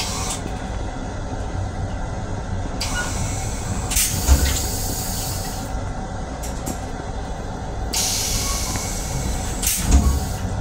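Running noise of a Metro-North M7 electric railcar heard from inside its restroom: a steady rumble, with two stretches of hiss, about three seconds in and again about eight seconds in, and two low thumps, near four seconds and near the end.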